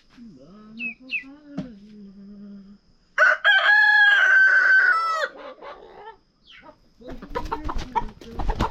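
A rooster crows once, loud and drawn out for about two seconds, about three seconds in, with chickens clucking before it. Near the end comes a quick run of short knocks and rustles.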